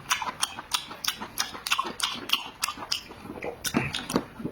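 A person chewing food close to the microphone: wet mouth smacks and clicks at about four a second.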